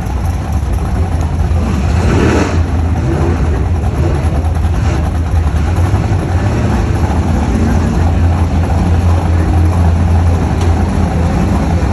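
Car engines running, a loud steady low rumble, with a short louder burst about two seconds in.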